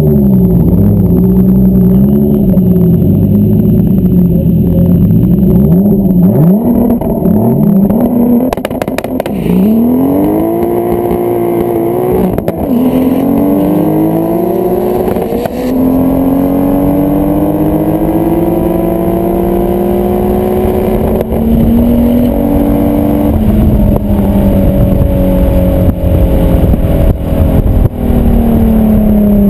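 Turbocharged VW Golf 24-valve V6 engine and exhaust, blipped and held on revs for several seconds, then launching hard and accelerating through the gears, with short drops in pitch at each shift. In the last gear the pitch rises slowly for several seconds, then falls gradually near the end as it comes off the throttle.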